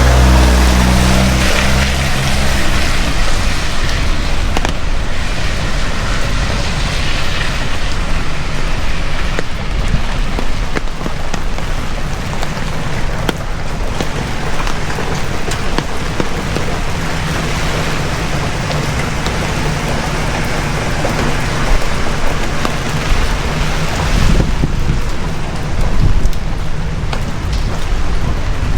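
Heavy rain pouring steadily. The low engine note of a passing vehicle fades out in the first couple of seconds.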